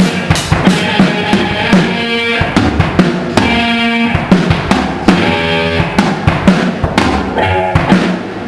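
A small rock band playing: a drum kit keeping a steady beat of bass drum and snare hits under sustained chords from a guitar. The drumming thins out right at the end.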